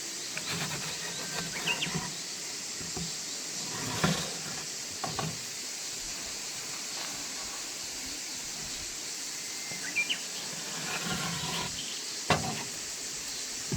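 A steady high hiss, with a few sharp knocks and clicks scattered through it and a couple of short high chirps.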